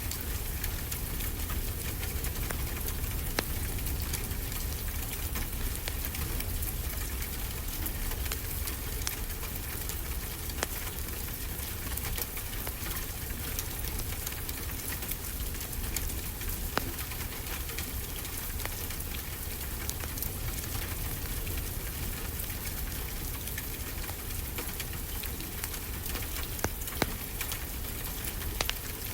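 Steady rain with a fireplace crackling, scattered sharp pops standing out now and then.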